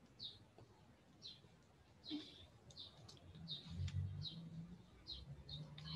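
Faint bird chirping in the background: short, falling chirps about twice a second, with a low hum coming in during the second half.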